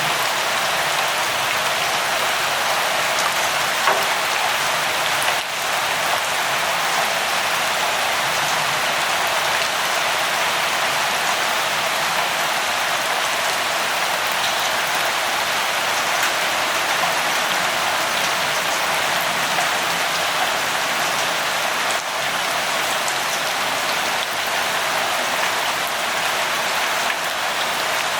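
Steady light rain falling, an even hiss with faint individual drops pattering on a surface.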